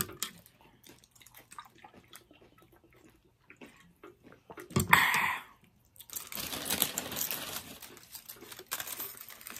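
Close-miked chewing and mouth sounds of people eating, with small soft clicks and smacks at first. There is a loud burst about five seconds in, then a louder hiss-like stretch lasting about three seconds.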